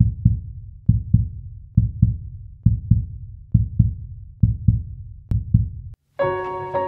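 Heartbeat sound effect: paired low thumps in a lub-dub rhythm, about one beat a second, seven times. It stops, and after a brief silence a sustained piano chord comes in near the end.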